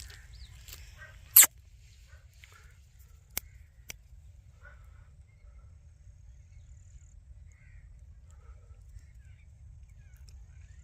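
Indian ringneck parrot calling: one loud, short, harsh squawk about a second and a half in, then two quieter sharp calls or clicks and faint scattered chirps.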